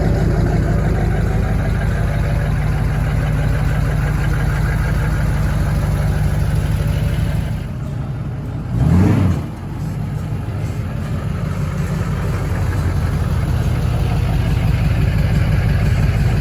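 A vehicle engine running steadily, with one quick rev blip about nine seconds in.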